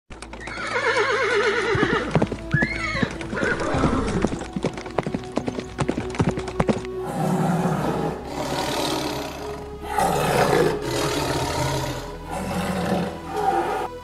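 A horse whinnies with a shaky, trembling call, then calls again briefly while its hooves clip-clop in a fast run of sharp knocks. From about halfway on come several loud, breathy blows.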